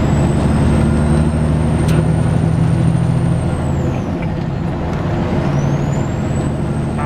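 Semi-truck diesel engine running on the road, heard from inside the cab. A high whine fades and the engine note drops about three and a half seconds in, then both build back up about two seconds later.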